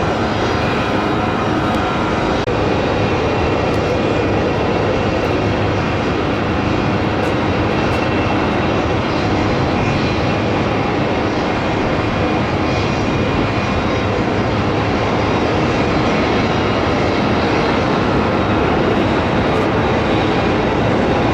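Embraer ERJ-135 regional jet landing, its Rolls-Royce AE 3007 turbofans giving a steady loud jet rush with a faint whine, growing slightly louder toward the end.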